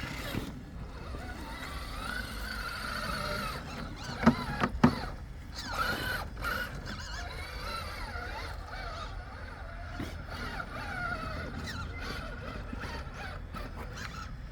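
Electric drive whine of an Axial SCX6 Honcho 1/6-scale RC rock crawler, rising and falling with the throttle as it works at climbing a tree trunk. Two sharp knocks about four seconds in.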